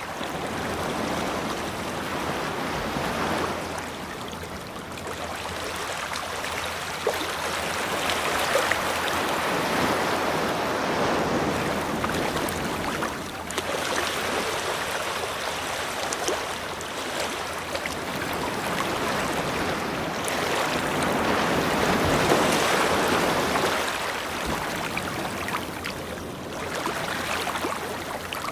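Ocean waves breaking and washing onto a beach, the surf swelling and easing back in slow surges several seconds apart.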